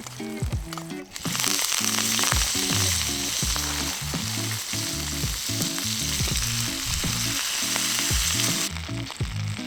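Food sizzling hard on a hot black iron griddle over a campfire. The sizzle gets much louder about a second in and eases back near the end.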